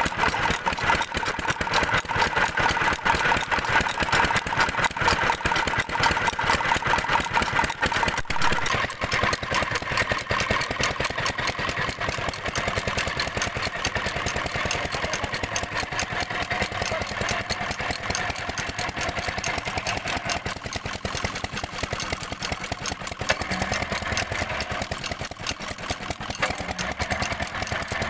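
Petter diesel engine running steadily with a rapid, even firing beat as it drives a tube-well water pump.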